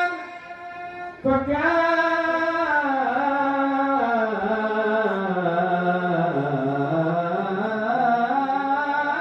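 A man's solo voice chanting Arabic Maulid recitation, drawing out one long melismatic phrase. After a short break about a second in, the pitch winds slowly down to a low point around six to seven seconds in, then climbs back up.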